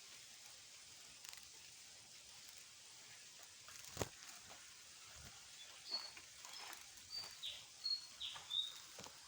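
A small bird calling: a run of short, high chirps and a couple of quick falling notes in the second half, over faint outdoor background noise, with a single sharp click a little before them.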